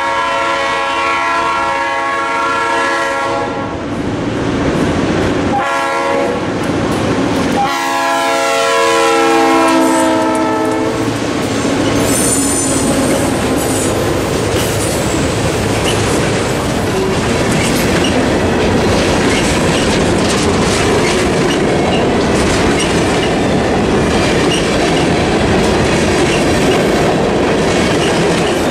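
Nathan AirChime RS3L horn on a lead EMD GP38-2 locomotive sounding a long chord, then a short one, then a final long one that drops in pitch as the engine passes. After that, freight cars roll by with steady wheel clatter and a brief high wheel squeal.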